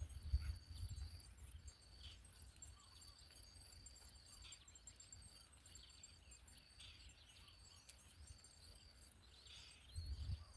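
Faint outdoor ambience with a thin, steady, high insect trill that stops and starts every second or two, and a brief low rumble about half a second in and again near the end.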